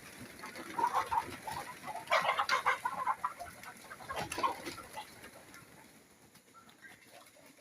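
Chickens clucking with other birds calling, in clusters of short calls that grow loud a few times in the first half and then fade toward the end.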